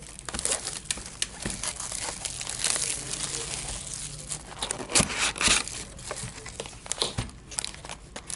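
Plastic wrapping on football trading card packs being torn open and crinkled by hand: irregular crackling, loudest in a couple of sharp bursts about five seconds in.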